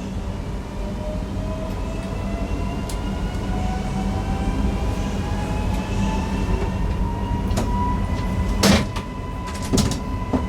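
Newag Impuls EN63 electric multiple unit pulling away, its traction drive whining in several tones that rise steadily in pitch as it accelerates over a low running rumble. A few sharp clicks come near the end, the loudest about three quarters of the way through.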